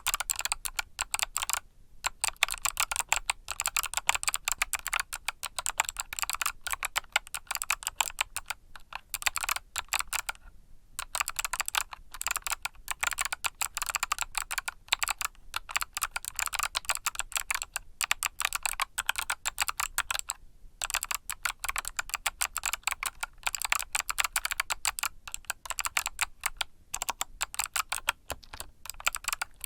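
Fast, continuous typing on a mechanical keyboard with Kailh Box Summer switches: a dense stream of crisp key clicks, broken by three short pauses about two, eleven and twenty-one seconds in.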